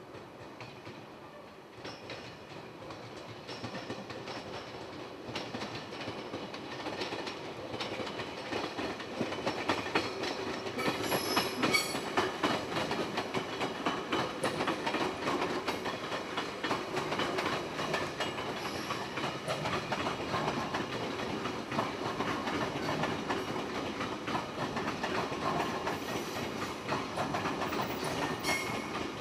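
A JR 383 series electric train rolling past, its wheels clicking over rail joints and points. It grows louder over the first ten seconds as it comes near, and a brief high squeal is heard about eleven seconds in.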